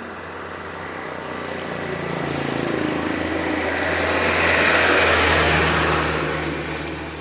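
Heavily loaded truck's diesel engine pulling hard uphill. Its drone and rushing noise build to a peak about five seconds in, then fade.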